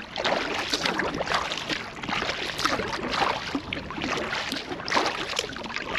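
Kayak paddle blades dipping into and lifting out of the water, with splashing and dripping at irregular strokes.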